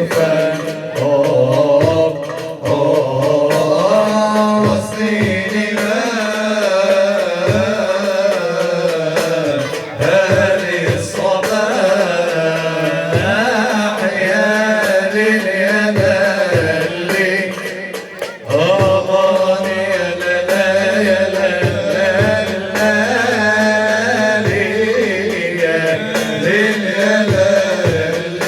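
A nasheed ensemble singing long, drawn-out melodic lines over steady hand-drum beats.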